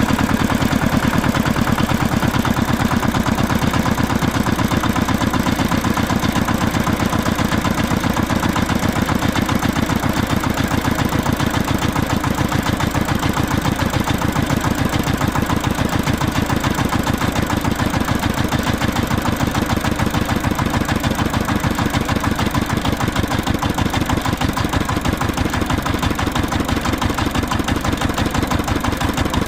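An engine idling steadily, with a fast, even chugging that holds the same pace throughout.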